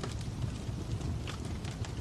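Fire crackling: a steady low rumble with scattered, irregular sharp pops and snaps.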